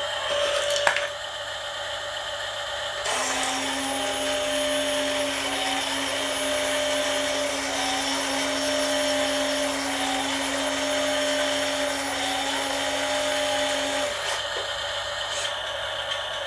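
Small electric motors of RC model vehicles whirring steadily for about eleven seconds, their pitch stepping up and down every second or so, with a click about a second in.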